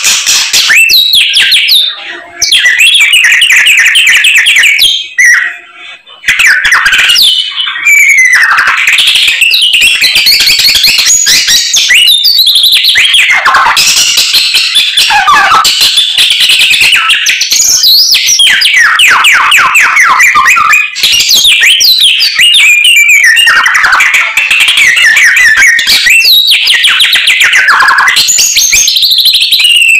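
A samyong songbird singing continuously in full voice: a fast, varied stream of trills, whistled sweeps and learned calls of other birds, pausing briefly twice in the first six seconds.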